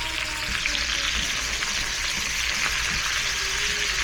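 Meat and shrimp sizzling steadily in a hot stir-fry pan, with a few faint ticks of stirring.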